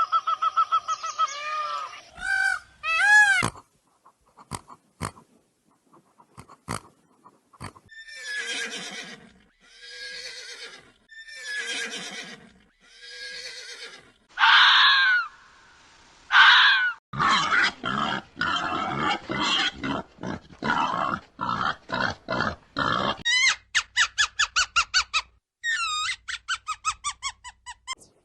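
A succession of different animals' calls, one after another. A run of falling whinny-like calls comes through the middle, followed by fast, rapidly pulsing chatter and calls toward the end.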